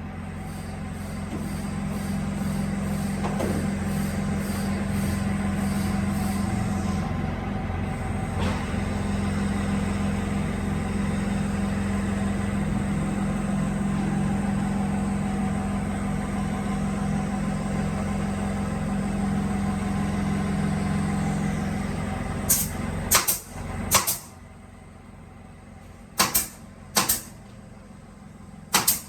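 Electric motor of a woodworking drilling machine running with a steady low hum, cutting off about 23 seconds in, followed by several sharp knocks.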